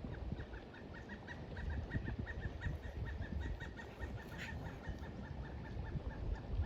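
A bird calling a long run of quick, short high notes, about six or seven a second, with one sharper note past the middle, over a low rumble of wind.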